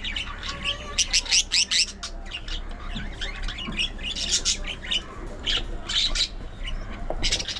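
A colony of budgerigars chattering and squawking: many short calls overlapping, with a louder run of rapid calls about a second in, over a steady low hum.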